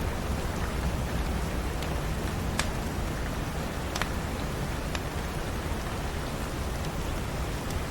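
Steady rain hissing evenly, with a log fire giving a few sharp crackling pops.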